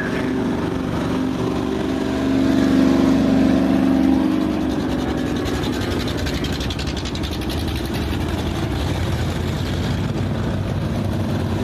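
Race car engines running on the track. The engine sound swells louder for a couple of seconds about two seconds in.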